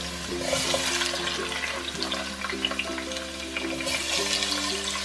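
Chopped tomatoes sizzling and crackling in hot oil in a pot, a steady hiss with scattered pops, over light plucked background music.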